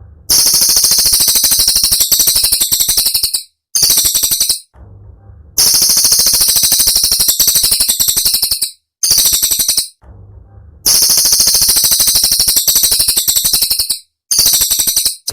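Cililin song: very rapid, high-pitched, sharp trilled notes fired in dense bursts, a long burst of about three seconds and then a short one of about a second, repeated three times with brief pauses between.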